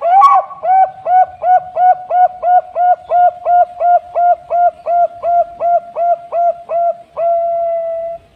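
Zebra dove (perkutut) cooing: a fast, even series of about twenty short clear notes, roughly three a second, ending in one longer held note.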